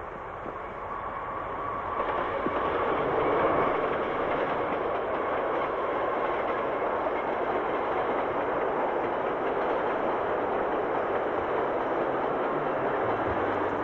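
Freight train passing, its rolling noise building over the first few seconds and then holding steady.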